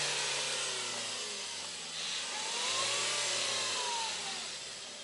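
Dacia Duster's engine pulling the SUV across soft, muddy ground. The revs rise and then fall back about halfway through.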